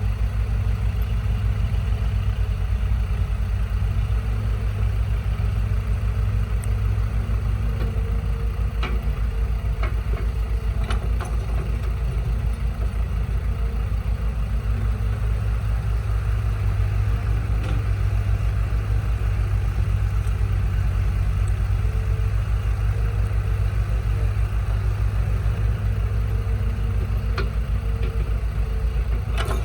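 Truck engine idling steadily with an even throb, with a few faint clicks along the way.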